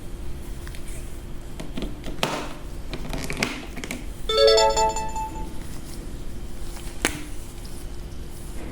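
A short bright ringtone-like chime of several stacked notes about four and a half seconds in, among a few sharp clicks over a steady low hum.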